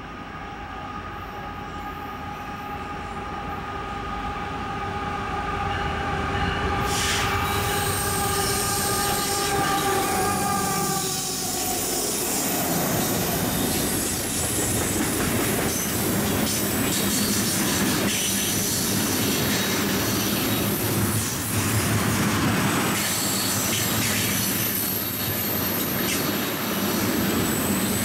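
Locomotive multi-chime air horn sounding a sustained chord that dips slightly in pitch at about eleven seconds in, as it passes. Then the train rolls by loudly with high-pitched wheel squeal.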